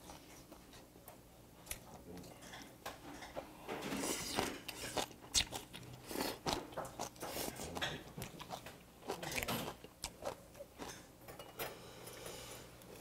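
A person chewing mouthfuls of braised dried monkfish close to the microphone, with irregular crunches and clicks as the fish's softened bones are chewed along with the flesh.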